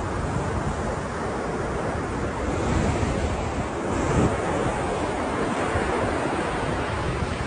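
Ocean waves breaking and washing onto the shore in a continuous surf, swelling a little about three to four seconds in, with some wind rumble on the microphone.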